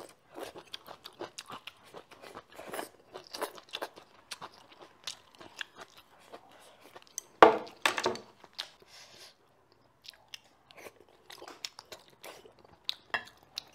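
A person chewing a mouthful of rice and sour pickled-cabbage pork stew close to the microphone, with soft crunching and many small wet clicks. One louder noise comes about seven and a half seconds in.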